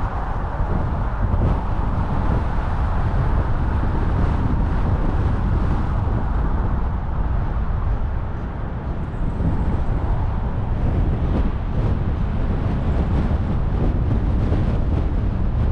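Steady rumble of a car driving along, tyre, engine and wind noise, dipping slightly a little past halfway and picking up again.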